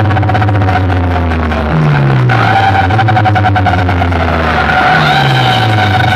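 Loud DJ sound-system music with deep bass notes that slide downward every few seconds, over a steady held tone and a fast beat.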